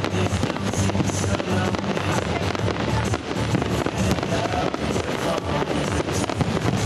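Fireworks crackling and banging in a dense, continuous barrage, with music playing underneath.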